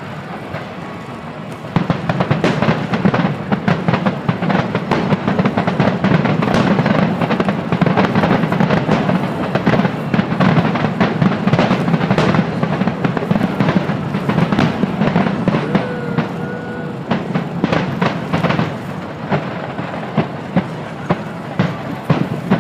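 Fireworks display in a rapid barrage: dense, overlapping bangs and cracks over a continuous low rumble, growing much louder about two seconds in and thinning out near the end.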